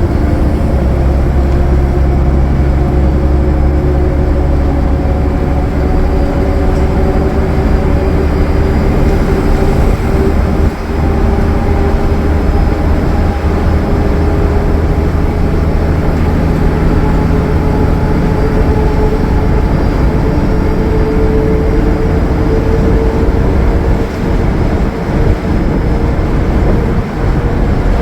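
Cummins ISL9 diesel engine of a Gillig Low Floor transit bus running steadily at highway speed: a heavy low drone with a whine that slowly rises in pitch.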